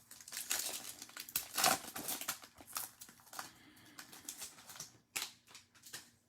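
Trading cards and pack wrappers being handled at close range: quick crinkling, rustling and clicking of card stock and wrapper, busiest in the first three seconds, then lighter, with one more sharp rustle about five seconds in.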